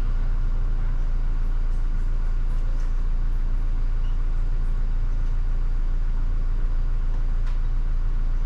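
Steady low drone of a car engine idling, heard inside the closed cabin.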